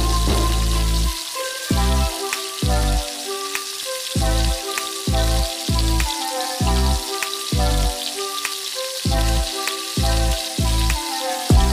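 Chicken wings deep-frying in hot oil in a wok, a steady sizzle, under background music with regular deep bass notes.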